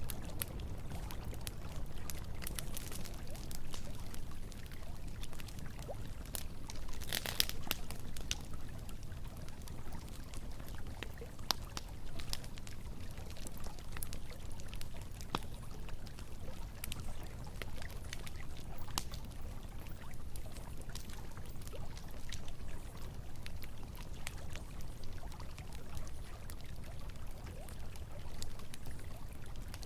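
A campfire crackling with scattered sharp pops over the steady rush of flowing river water, with a brief louder flurry of crackles about seven seconds in.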